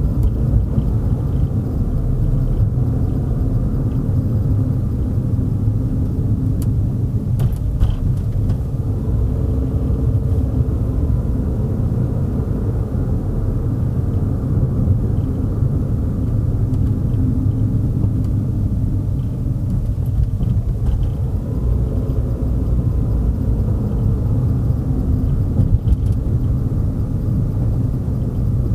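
A car driving on the road: a steady low rumble of tyres and engine, with faint engine tones drifting up and down.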